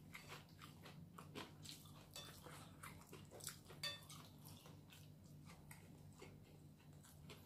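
Faint crunching and chewing of crispy fried chicken skin, a scatter of small crisp crackles, more of them in the first half.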